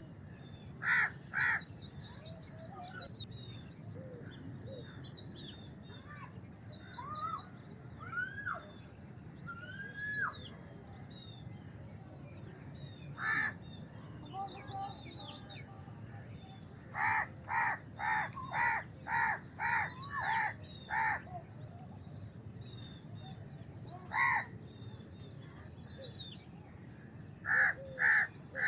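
House crows cawing in harsh calls: two about a second in, single caws now and then, and a quick run of about eight caws near the middle. Small birds chirp continuously at a high pitch behind them, with a few short whistles along the way.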